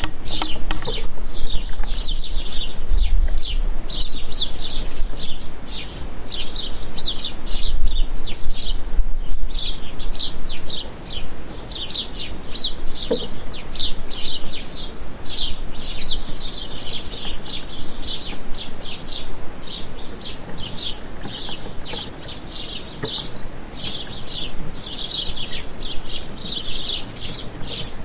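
Many small songbirds chirping at once: a dense, continuous chatter of short, high chirps.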